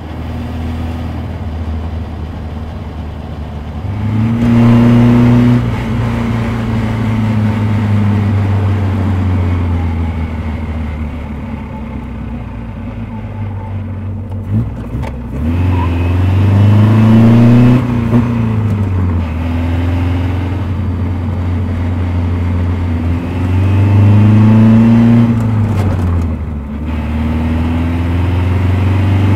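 Vintage Riley sports car engine pulling hard under way, its note climbing in pitch and dropping back at each gear change, three times over.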